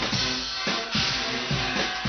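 Guggenmusik carnival band playing: brass over a steady beat of bass drum and snare.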